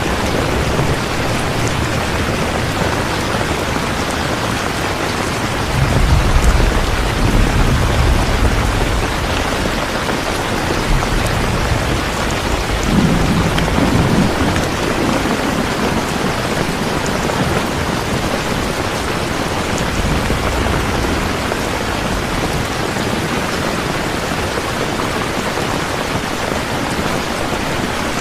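Steady heavy rain falling, with low rolls of thunder rumbling in about six seconds in and again about halfway through.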